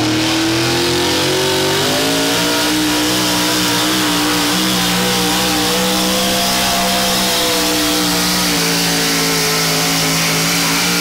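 A truck- or tractor-pulling vehicle's engine running flat out during a pull: the pitch climbs over the first two seconds, then holds steady and loud under load, beginning to fall right at the end as the pass winds down.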